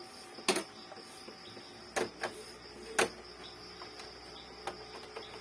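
Epson L3110 inkjet printer mechanism giving several sharp clicks over a steady faint high whine, while the printer is in an error state after its printhead flex cable was replaced.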